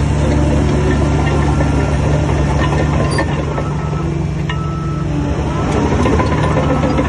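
Heavy diesel engine running steadily, easing off slightly around the middle and picking up again near the end, with a few short sharp knocks over it.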